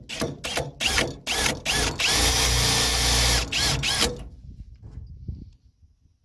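Power drill driving a self-drilling screw into metal: several short bursts on the trigger, then about a second and a half of steady running, then two more short bursts, stopping about four seconds in.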